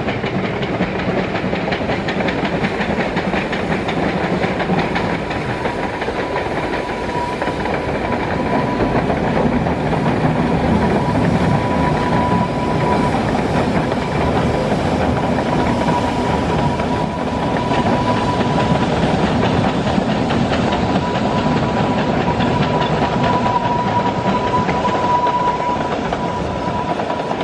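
Narrow-gauge steam-hauled train running across a steel bridge: a steady dense clatter of wheels on rail joints, with a thin high steady whine running through it.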